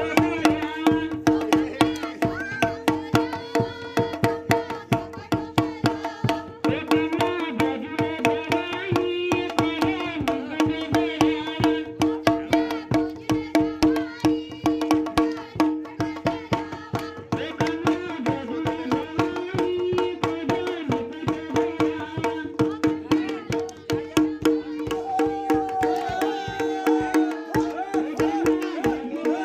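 Kumaoni jhoda folk song: voices singing over a steady, fast drum beat and a sustained drone.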